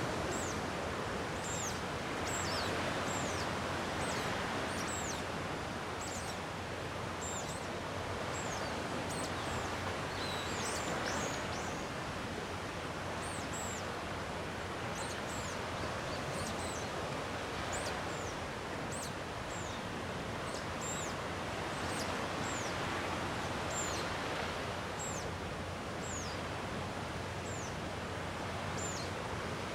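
Gentle sea waves washing on a rocky shore: a steady hiss that swells and eases every few seconds. Short, high, downward-sliding bird calls repeat over it about once a second.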